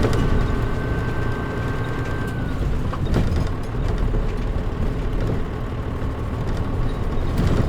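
Mitsubishi Fuso KL-MP37JM bus's diesel engine running under way, heard from inside the cabin as a steady low rumble, with the air conditioning off. A thin high whine fades out about two and a half seconds in, and there is a short knock about three seconds in and another near the end.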